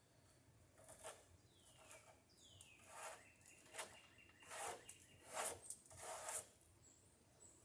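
Faint scrapes and rustles of lumber being handled, a series of short strokes about a second apart, with two brief falling squeaks between about one and a half and three seconds in.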